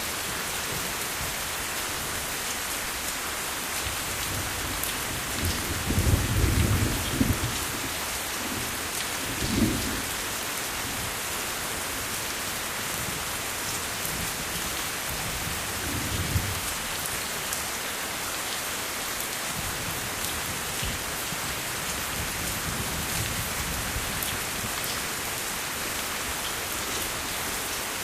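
Steady rain falling, with low rumbles of thunder over it: the longest about six seconds in, and two shorter ones near ten and sixteen seconds.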